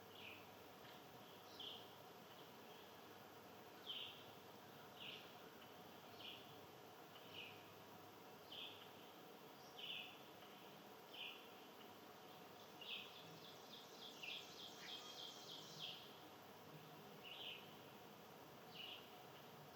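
Small songbird calling: a short high chirp repeated about once a second, with a quick run of rapid notes partway through, over faint steady background noise.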